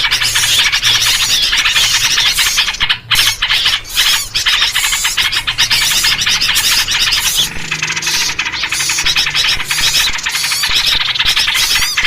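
A dense, continuous chorus of agitated small-bird chatter and scolding calls, mixed with yellow-vented bulbul (trucuk) calls: a noisy bird-lure recording meant to draw in small birds. There are short lulls about three and four seconds in.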